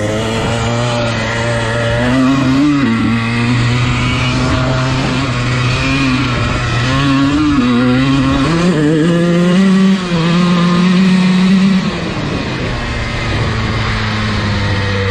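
Dirt bike engine running as the bike is ridden, its pitch rising and falling with the throttle; it climbs sharply about nine seconds in, holds high for a few seconds, then drops back.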